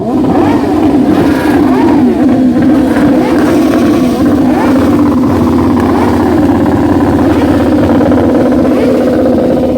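Motorcycle engines revving, the pitch rising and falling again and again.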